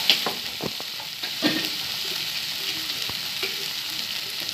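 Liver and kidney pieces sizzling in a hot nonstick pan, with a steady frying hiss, while a spatula stirs them, scraping and knocking against the pan a few times; the loudest knock comes right at the start.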